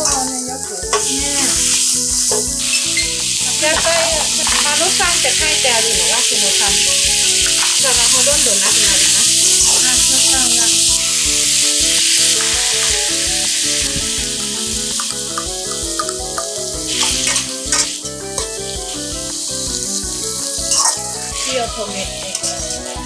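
Chicken and vegetables stir-frying in a wok, sizzling hard, with a metal spatula scraping and tossing them. The sizzle swells about three seconds in as seasoning goes in, and eases off in the second half as the heat is turned off.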